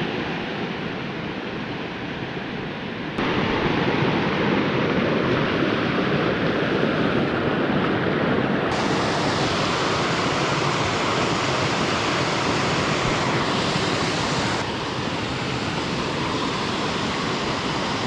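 Steady rush of flowing, falling water, with sudden jumps in level and tone about three, nine and fifteen seconds in.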